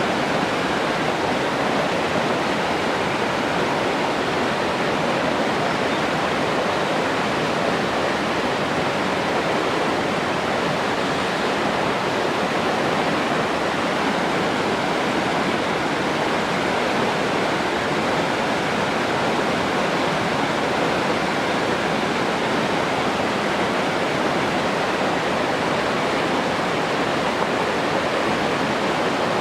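Running water rushing steadily, an even noise that does not change.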